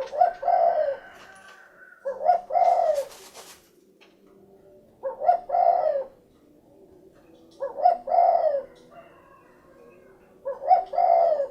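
Spotted dove (derkuku) calling: five cooing phrases about every two and a half seconds, each a short note followed by a longer rolling coo. A brief rustle comes just after the second phrase.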